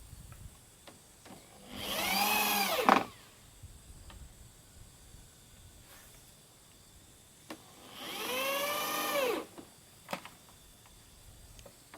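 Power drill run twice in short bursts of about two seconds each, about six seconds apart, its whine rising as the motor spins up and falling as it slows, as when driving screws into the wooden door frame. A few light knocks between the runs.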